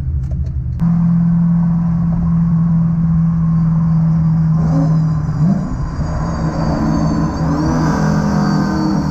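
Boosted Camaro's engine and road noise heard inside the cabin while driving: a steady engine note that climbs in pitch near the end as the car speeds up.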